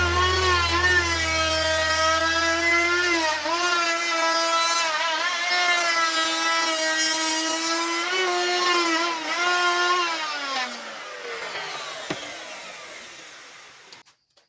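Electric woodworking power tool running with a steady high-pitched motor whine that dips briefly a few times as it takes load. About ten seconds in it is switched off and spins down, its pitch falling as it fades.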